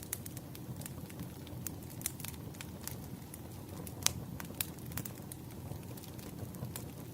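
Wood fire burning, with a steady low rumble and frequent sharp, irregular crackles and pops from the burning logs.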